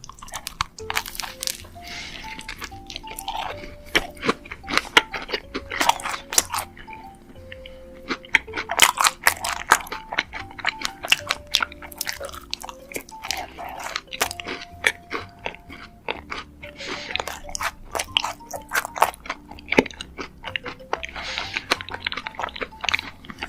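Crisp crunching and chewing of a chocolate-vanilla macaron, many bites and chews in irregular runs, over soft background music with held notes.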